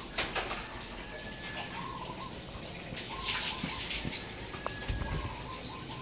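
Several short bird calls, including a couple of quick rising chirps, with a few brief swishing noises.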